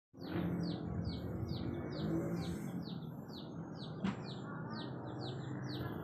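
A bird repeating a short, high, downslurred note about three times a second, steady and even, over steady low background noise. A single sharp click about four seconds in.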